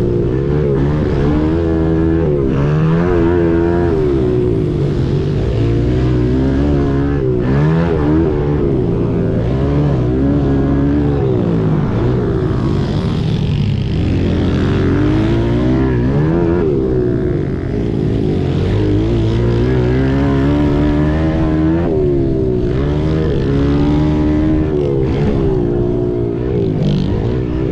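Several small pit bike engines racing, their pitch climbing and dropping over and over as riders work the throttle and shift through the gears.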